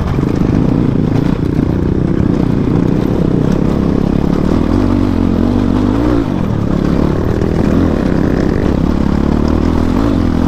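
Motorcycle engine running steadily as the bike is ridden along a rough off-road track, with its pitch lifting briefly a little past the middle.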